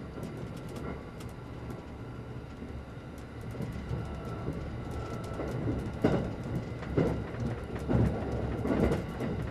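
Limited express electric train running at speed, heard inside the passenger car: a steady low rumble of wheels on rails. From about six seconds in, louder knocks come from the running gear roughly once a second.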